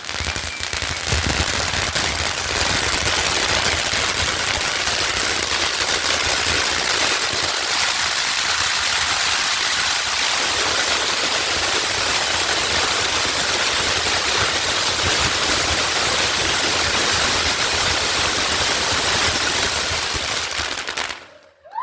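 Bonfire crackling and popping in a rapid, dense stream over a steady hiss, with a low rumble underneath; it cuts off suddenly near the end.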